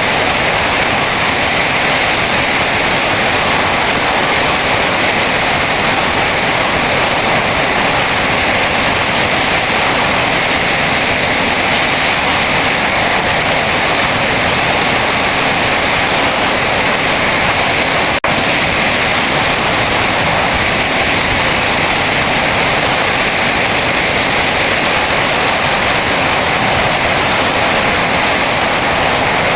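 Heavy rain pouring down in a dense, steady hiss, with a momentary break about eighteen seconds in.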